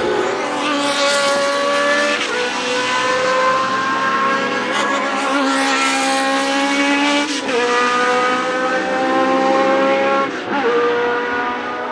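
Historic Formula 1 race car engine running at high revs as the car goes past. The pitch climbs steadily and drops sharply three times, about two, seven and ten seconds in, as the driver changes up a gear.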